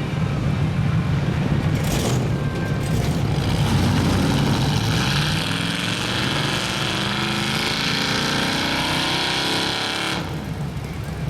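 Mud truck engine revving under load, its pitch climbing steadily for several seconds over a rushing hiss, then falling away abruptly about a second before the end.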